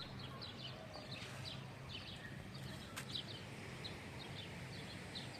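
Small birds chirping and twittering in short repeated calls, over a steady low hum, with one sharp click about three seconds in.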